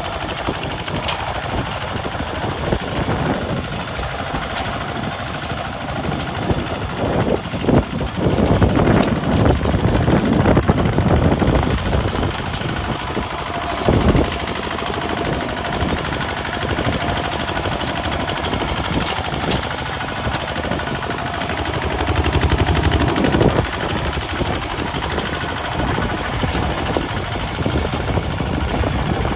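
Kubota RT single-cylinder diesel engine of a modified walking tractor running steadily while plowing a field. It grows louder about eight seconds in for a few seconds, and again a little past two-thirds of the way through.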